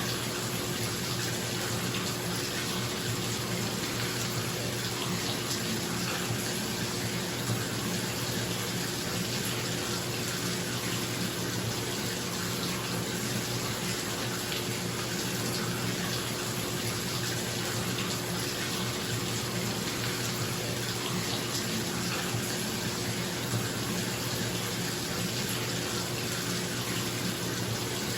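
Bathtub tap running steadily into the tub, with the low, steady hum of a bathroom exhaust fan underneath.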